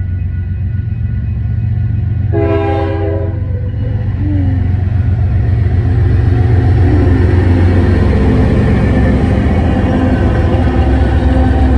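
CN diesel-electric freight locomotives approaching and passing close by. Their engines make a deep rumble that grows louder, with one short blast of the locomotive horn about two and a half seconds in. The rolling noise of wheels on the rails builds as the lead units go past.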